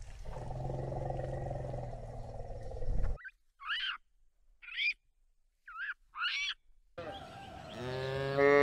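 An elephant gives a steady, low, drawn-out call, which cuts off about three seconds in. Then come a few short, high calls from long-tailed macaques, and near the end a cow starts a rising moo.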